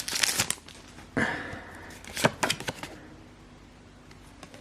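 A foil booster-pack wrapper crinkling for a moment, then Pokémon trading cards being slid out and handled, with a few sharp taps of the card stack a little after two seconds in.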